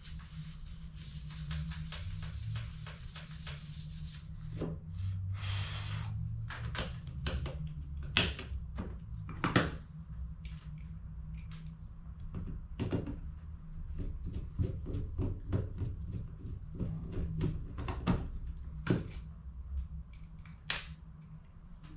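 Hands working on a plastic laser toner cartridge: a few seconds of rubbing and scraping, then a run of sharp clicks and taps from the plastic parts, over a steady low hum.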